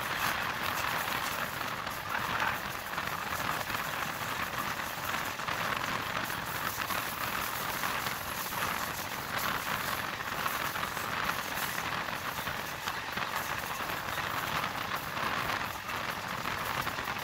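A moving MEMU (electric multiple unit) train at running speed, heard from an open window: a steady rush of wind and wheel-on-rail noise with a fine crackling hiss.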